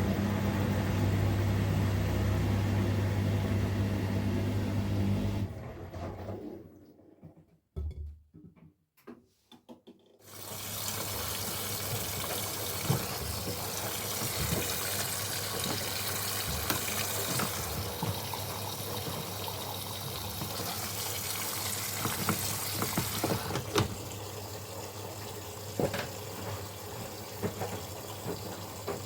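Miele Professional PW 6065 Vario washing machine ending an interim spin: a steady motor and drum hum that dies away after about five seconds, then a few seconds of near quiet with clicks. About ten seconds in, water starts rushing in through the inlet to fill for the final rinse with fabric softener, with occasional knocks from the drum.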